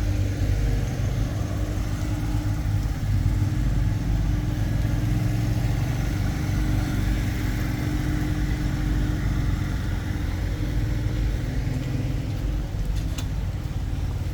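A low, steady engine hum, like a motor idling, with a single click near the end.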